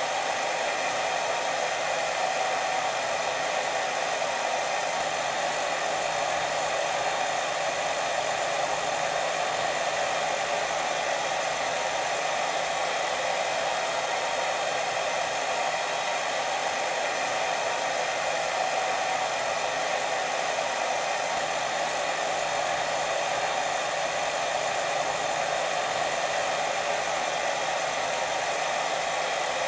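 Steady white noise for sleep: an even, unbroken hiss, fullest in the middle of the range, that does not change or pause.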